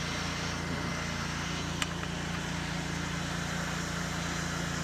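Pressure washer engine running steadily, with a single sharp click about two seconds in.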